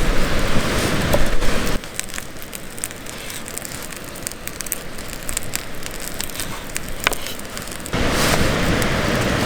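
Wood campfire crackling and hissing, with scattered sharp pops; louder for the first couple of seconds and again near the end, quieter in between.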